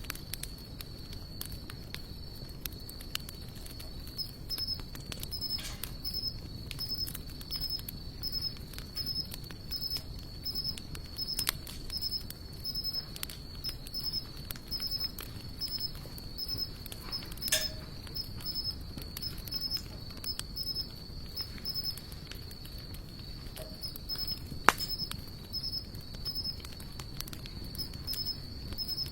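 Sawtooth oak and mixed hardwood burning, crackling with frequent small pops and one sharp loud pop late on. An insect trills steadily and high throughout, with a regular chirping pulse about twice a second.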